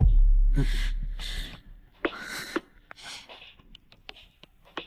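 A deep bass boom hits at the start and fades over about a second and a half, with a few breathy gasps and sighs from a person over it and after it.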